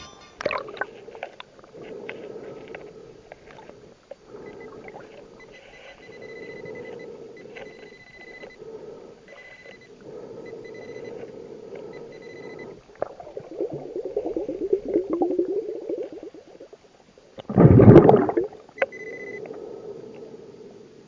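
Underwater sound of a scuba diver's breathing: exhaled bubbles from the regulator rattle and gurgle in bursts, with one loud rush of bubbles a little before the end. Short high beeps come and go at intervals.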